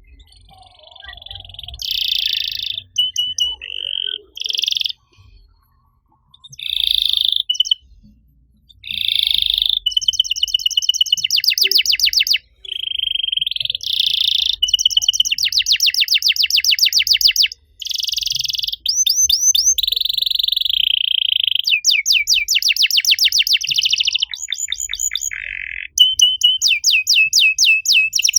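Canary singing: short separate phrases with pauses at first, then from about ten seconds in an almost unbroken song of fast trills and rapid repeated high notes.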